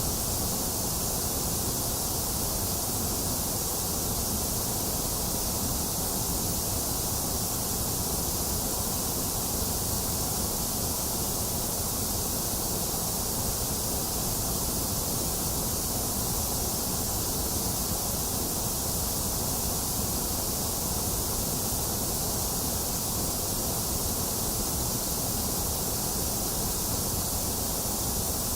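Steady, unchanging white noise: an even hiss, strongest in the high end, with no events or changes.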